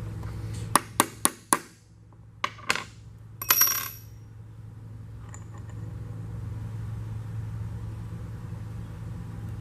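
Small steel transmission parts clicking and clinking against each other as a tight part is tried in its slot: four quick sharp clicks about a second in, two more, then one ringing metallic clink. A steady low hum sits underneath.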